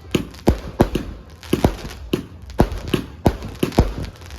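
A 150-shot fireworks cake firing in quick succession, sharp bangs about three a second.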